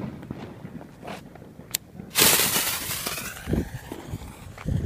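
Consumer firework going off: a loud sudden bang about two seconds in that trails off over about a second, with a few smaller pops before it and low thumps near the end.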